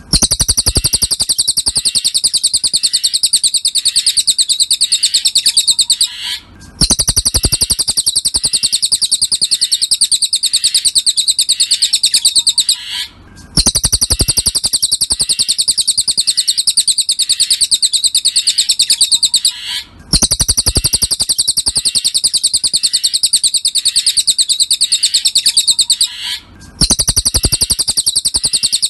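Cililin bird song used as a tutor recording: a fast, even trill of high-pitched chirps, delivered in phrases about six seconds long with a short pause between each, five phrases in all.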